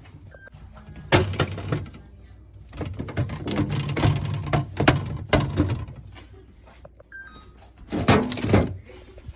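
Knocks and clatter of items and fridge parts being handled during fridge cleaning. There is a single knock about a second in, a run of clattering from about three to five and a half seconds, and a louder burst of knocks near the end.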